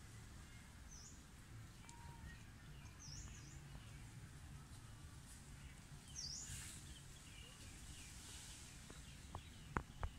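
Quiet outdoor ambience with a low steady rumble. A few short, high bird chirps come through it, and there are two sharp clicks near the end.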